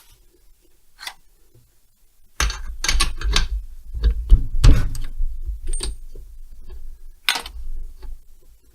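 Metal tools and parts clicking and clattering as they are handled. There is a single click after a quiet start, then a run of irregular knocks and clicks from about two and a half seconds in.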